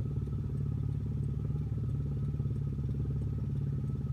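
Vehicle engine idling steadily with an even, low pulsing rumble.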